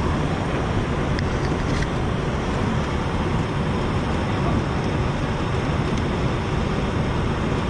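Steady cabin noise inside a De Havilland Canada Dash 8-400 turboprop airliner on the ground before takeoff.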